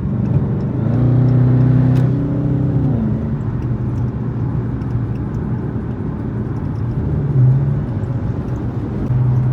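Car engine and road noise heard from inside a car at highway speed. About a second in, the engine note rises in two steps and falls back near three seconds, then settles into a steady drone.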